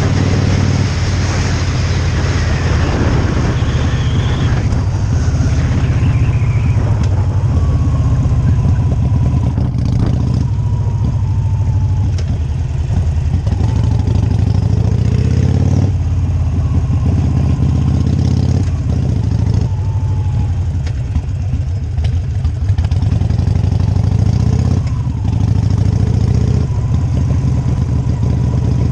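Motorcycle engine running as the bike is ridden, a loud steady drone whose engine speed changes every few seconds.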